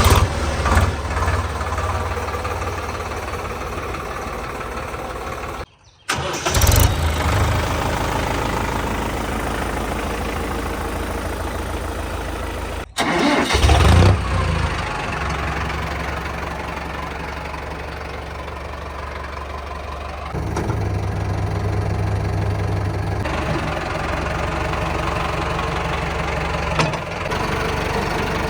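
Diesel tractor engine starting with a loud burst and then idling steadily. The sound drops out abruptly twice, and each time the engine starts again with a burst. Later in the stretch it runs a little louder for a few seconds.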